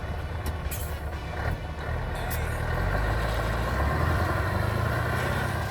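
Scania semi truck driving: a steady diesel engine rumble with road noise, growing louder about two seconds in and easing slightly near the end.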